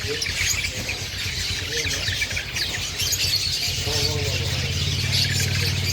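Long-tailed shrike (black-headed cendet) singing a fast, continuous stream of chirps. A low hum comes in about two-thirds of the way through.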